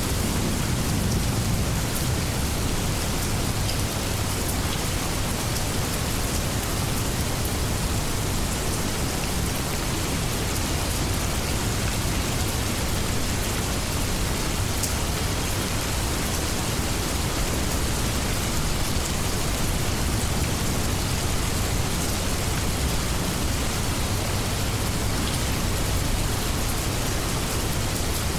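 Steady rainstorm: an even hiss of heavy rain with scattered individual drop ticks.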